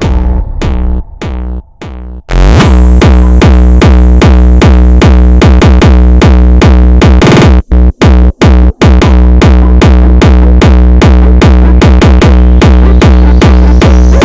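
Loud, fast acid techno: a hard drum-machine kick pounding in a steady rhythm under layered synthesizer lines. The beat drops out in the first couple of seconds and slams back in, and a few sudden stop-start cuts fall around the middle.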